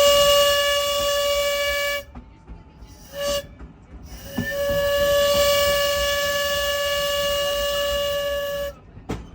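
Locomotive air horn sounding a grade-crossing signal: a long blast, a short one, then a long blast of about four seconds, each a steady multi-note chord.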